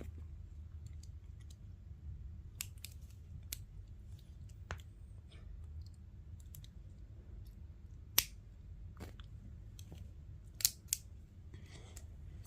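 Plastic Lego bricks being handled and pressed together: scattered sharp clicks, the loudest about eight seconds in and a quick pair near the end.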